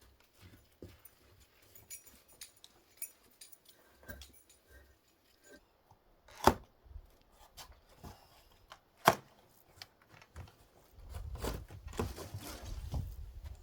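Handling noises: scattered light clicks and rustles, two sharp knocks about six and nine seconds in, and a low rumble in the last few seconds.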